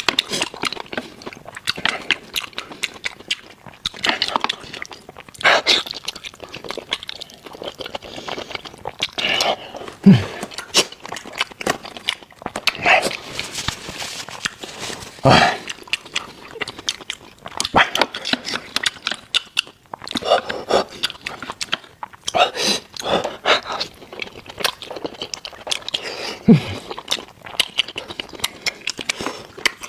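Close-miked chewing and biting of meat: irregular wet smacks and crunches, with a few louder mouth sounds now and then.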